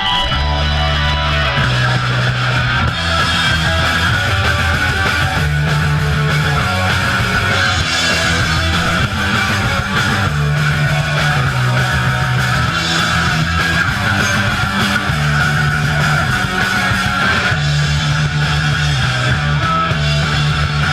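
Punk band playing live: loud distorted electric guitar over a bass line that steps between notes, with drums, continuous and unbroken.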